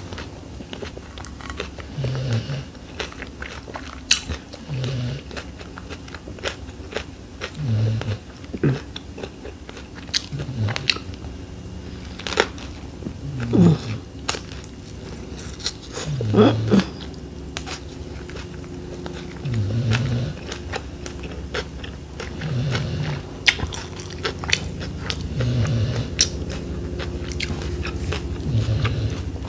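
Close-miked eating of fresh shrimp summer rolls in rice paper: biting and chewing, with many wet mouth clicks and smacks and a few crunchier bites from the lettuce and cucumber filling.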